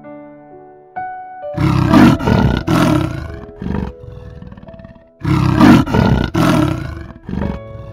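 Leopard growling in two runs of loud, rough bursts, one starting about a second and a half in and one about five seconds in, over soft piano music.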